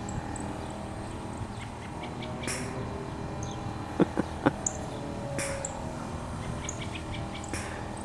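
Birds chirping in short high notes over a steady background hum, with three sharp clicks close together about four seconds in.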